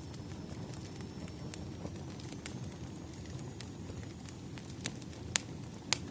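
Wood fire crackling: a steady low rumble of burning logs with scattered sharp pops, the loudest two near the end.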